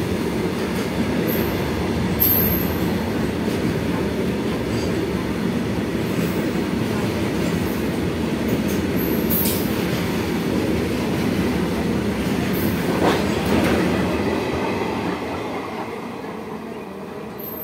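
Freight train of covered wagons running through the station at speed: a steady, loud rumble of wheels on rail, with a few short high squeals. It fades over the last few seconds as the brake van at the tail passes and the train draws away.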